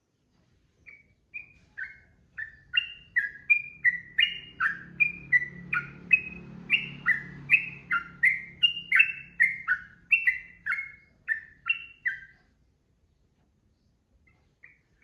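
Yellow-vented bulbul (trucukan) singing a long rapid run of short, bubbly falling notes, about two to three a second, for roughly eleven seconds, then stopping; one more short note comes near the end.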